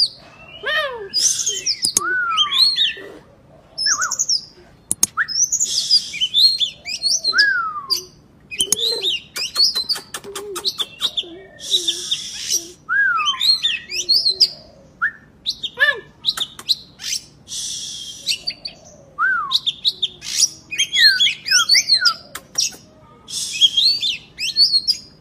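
Oriental magpie-robin (kacer) in full, loud song: quick varied phrases of slurred whistled notes that glide up and down, mixed with harsh buzzy notes and sharp clicks, with short pauses between phrases.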